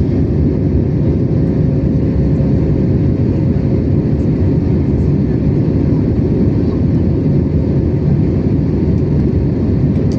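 Steady jet engine and airflow noise heard inside the cabin of an Airbus A321neo with Pratt & Whitney PW1100G geared turbofans in flight: a constant low rush with a faint steady hum on top.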